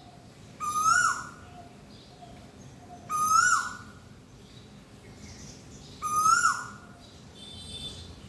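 A bird calling loudly three times, about three seconds apart, each call a short ringing note that rises and then drops sharply. Fainter chirps of other birds sound between the calls.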